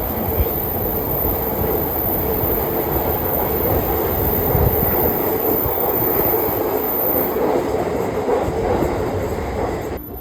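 An electric commuter train running along the platform: a loud, steady rumble of wheels on the rails with a constant hum. It cuts off suddenly near the end.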